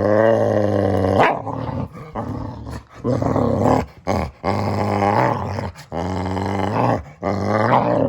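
Boxer dog making a string of drawn-out growly vocal sounds, about five in a row, each with a wavering pitch and short pauses between them.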